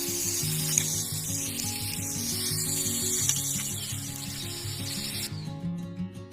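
A steady scraping, rubbing noise over background music with a steady beat; the scraping stops abruptly about five seconds in, leaving the music.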